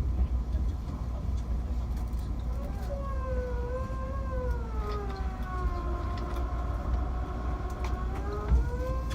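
Low rumble of the E353 train running, with a whining tone that starts about three seconds in, slowly sinks in pitch, holds and then rises again near the end.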